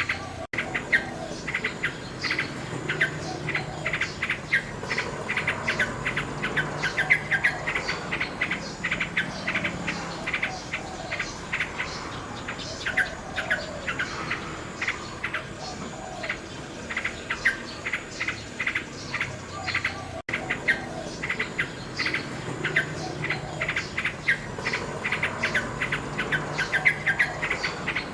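Common nightingale singing rapid, varied phrases of chirps and trills over a steady chorus of crickets. The sound briefly cuts out about 20 seconds in.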